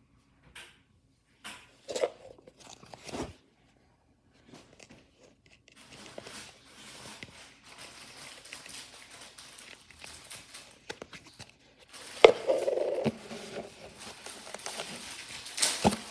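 Knocks, crunching and crinkling of a washing machine being broken apart, with a loud sharp hit about twelve seconds in and another near the end.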